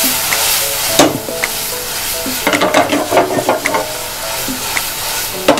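Tomato-and-onion tadka sizzling in desi ghee in a metal frying pan while being stirred. The stirring utensil clicks and scrapes against the pan, with a quick run of clicks in the middle and sharp knocks about a second in and at the very end.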